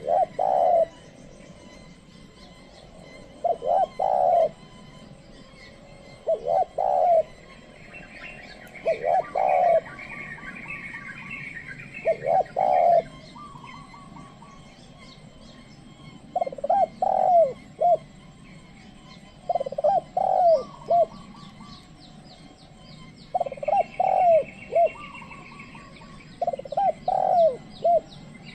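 Spotted dove (tekukur) cooing: a tame decoy's call used to lure wild doves, a short phrase of several low coos repeated about every three seconds, nine times. Smaller birds chirp more faintly and higher in the background.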